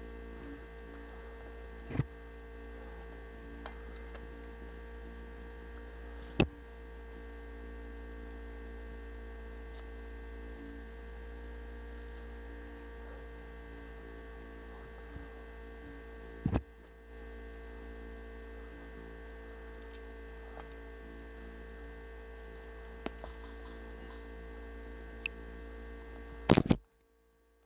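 Steady electrical mains-type hum with several fixed tones, broken by a few sharp clicks. There is a louder cluster of clicks near the end, then the hum cuts off suddenly.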